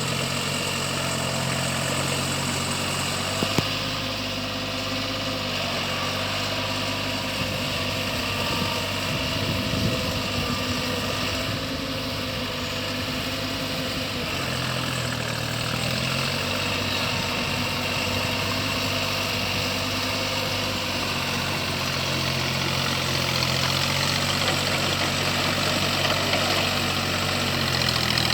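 Deutz-Fahr Agrolux 50 tractor's diesel engine running steadily, its pitch dipping and rising slightly around the middle and again near the end. Two short clicks come a few seconds in.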